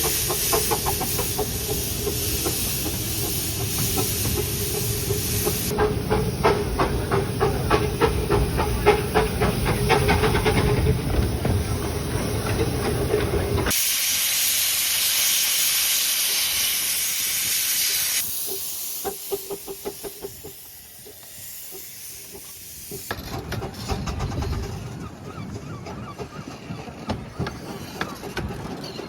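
Steam locomotives working hard, with loud steam hiss and fast, even exhaust beats like those of driving wheels slipping. Several clips follow one another, and the sound changes abruptly at each cut.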